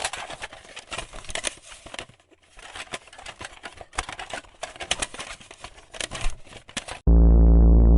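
Irregular crackling and rustling in uneven bursts. About seven seconds in, a very loud, steady, low electronic buzz cuts in abruptly.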